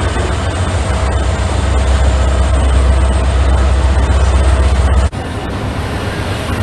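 Train running past the lineside, a loud heavy rumble with rail noise, cut off abruptly about five seconds in to a different train sound with less low rumble.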